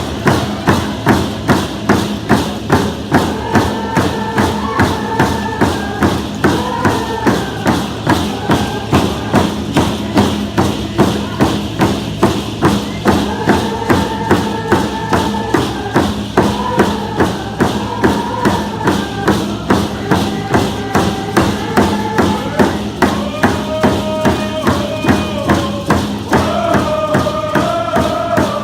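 Group of Lummi (Coast Salish) singers performing a song in unison to a steady hand-drum beat, about two strokes a second.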